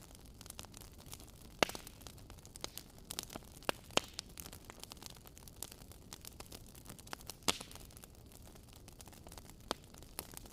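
Wood fire in a fireplace crackling, with irregular pops and snaps over a faint hiss; a few sharper pops stand out, about one and a half, four and seven and a half seconds in.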